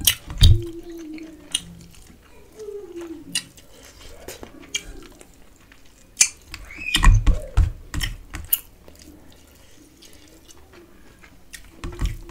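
Close-miked wet chewing and lip smacks of a mouthful of rice and duck curry, with fingers squishing rice against a steel plate. The sounds come as scattered short clicks and smacks, loudest in a cluster about seven seconds in.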